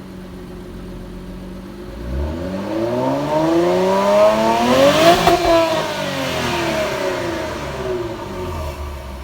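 Infiniti Q50 Red Sport's twin-turbo 3.0 L V6 on Megan Racing downpipes and stock exhaust, revved once from idle: the pitch climbs over about three seconds, peaks about five seconds in, then falls back to idle.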